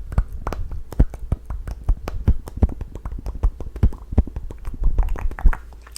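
Close-miked ASMR mouth sounds: a fast, irregular run of wet tongue and lip clicks and smacks, several a second, stopping near the end.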